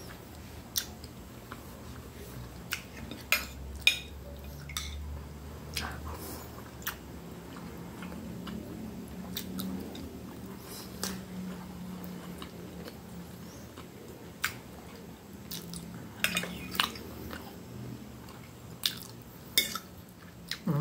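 Mouth-noise of chewing food, with a scattering of sharp clicks and clinks of a metal knife and fork against a ceramic plate, several of them close together near the end.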